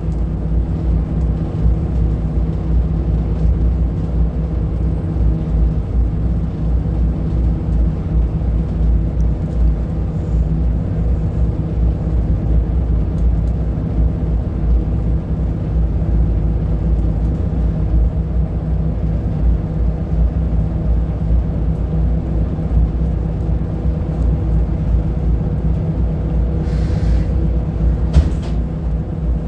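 Scania L94UB bus's diesel engine running at a steady speed, a deep, even rumble with no revving. A couple of brief hisses come near the end.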